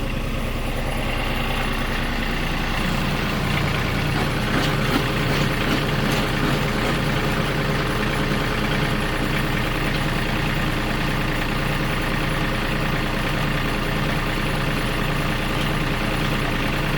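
RK37 compact tractor's diesel engine running steadily, powering a three-point post hole digger. Its sound grows fuller about two to three seconds in, as the auger is put to work.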